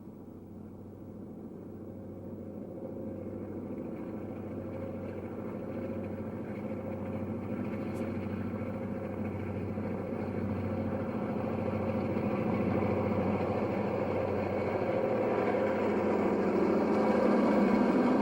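Diesel locomotive engine running with a steady drone, growing gradually louder as the train approaches.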